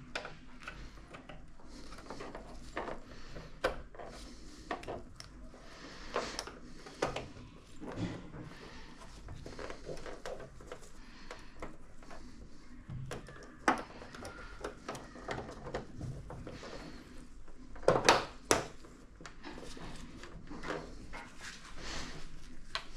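Irregular clicks, knocks and rustling of objects being handled, with a louder cluster of sharp knocks about three-quarters of the way through.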